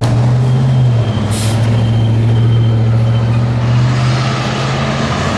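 A truck engine running close by as a steady low drone, with a short sharp hiss about a second in.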